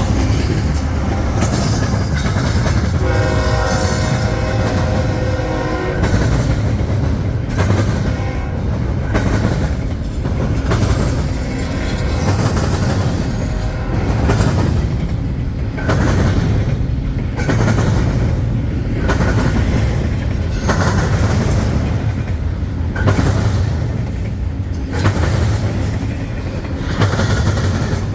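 Freight trains running past close by with a steady rumble and repeated clacks of wheels over rail joints. About three seconds in, a diesel locomotive's air horn sounds for about three seconds as a horn salute.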